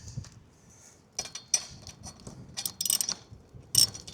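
Socket ratchet clicking in short bursts as nuts on the antenna mast clamp are turned, with light metal tool clinks.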